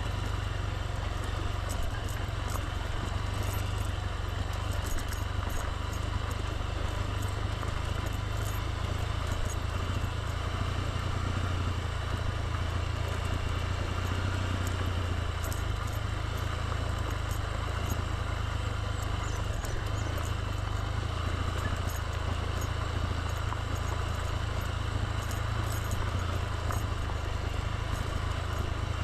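Motorbike running steadily while being ridden, a constant low rumble under an even rush of noise with no change in pace.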